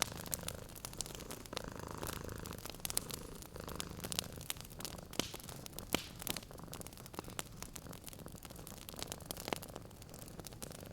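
A cat purring steadily, a low continuous rumble, under a wood fire crackling, with sharp pops and snaps scattered irregularly throughout.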